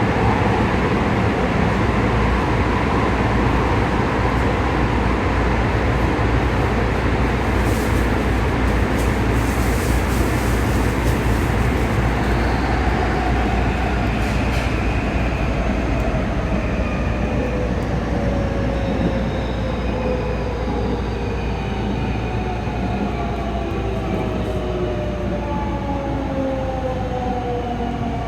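JR West 207 series electric train heard from inside the car, rolling along with its VVVF inverter motor whine; the car's two inverters run out of step, giving a doubled, unusual tone. In the second half several whine tones fall slowly together as the train slows.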